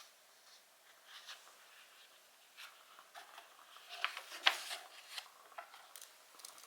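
Wood fire crackling, with irregular sharp pops and snaps, the loudest about halfway through.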